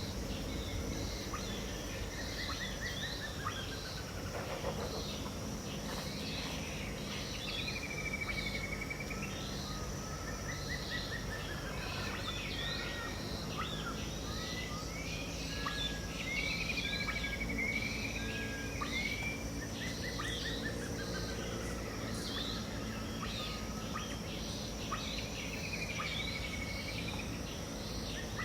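Dawn chorus of many birds calling and singing together, with a steady high insect drone beneath. One bird repeats a curving whistled call about every nine seconds, and another gives a falling trilled phrase.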